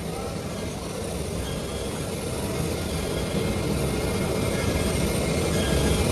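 IECHO BK4 single-ply fabric cutting machine running, a steady mechanical whir and rumble that grows gradually louder.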